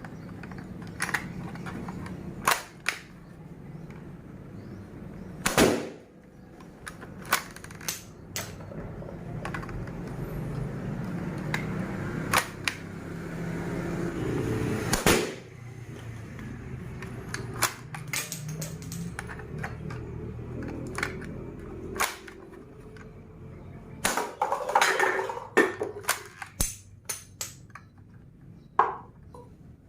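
Plastic toy gun being worked and fired, giving irregular sharp clicks and snaps, with a quick cluster of clicks near the end, over a low steady background hum.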